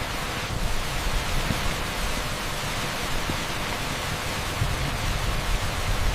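Heavy rain pouring steadily onto an asphalt street: a dense, even hiss with a low rumble underneath.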